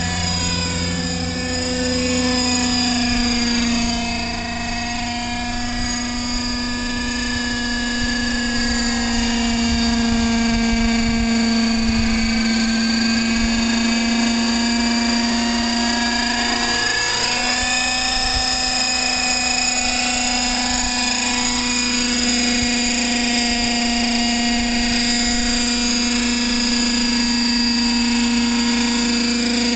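Radio-controlled helicopter running: a steady, pitched whine from its motor and rotors, shifting slightly in pitch now and then, with a brief dip about two-thirds of the way through.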